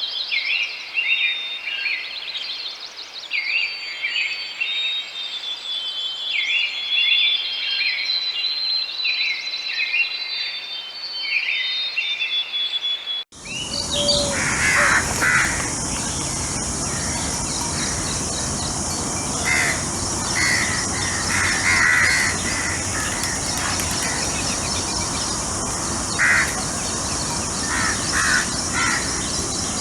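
Wild birds singing and calling in short repeated phrases. About a third of the way in the sound cuts abruptly to another outdoor recording, where a steady high insect drone runs under occasional bird calls.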